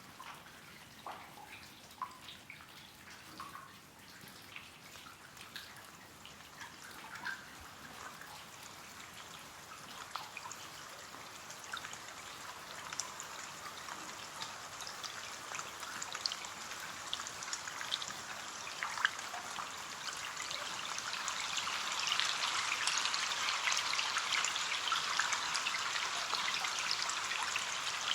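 Rain on a window: scattered single drops tapping at first, growing steadily denser and louder into an even patter of rain over the second half.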